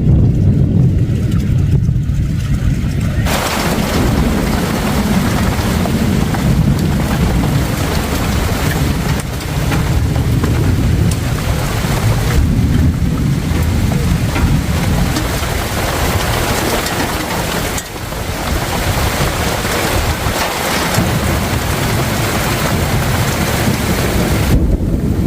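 Heavy rain pouring down in a storm, with a strong low rumble of wind or thunder underneath. The rain hiss comes in abruptly about three seconds in and falls away just before the end.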